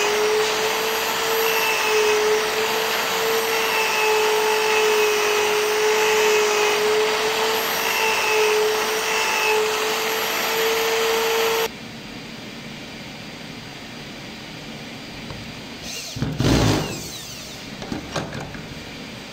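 An electric power tool's motor running steadily with a constant whine, stopping abruptly about twelve seconds in. After it, a quieter steady hum with a brief low thump a few seconds later and a few light knocks.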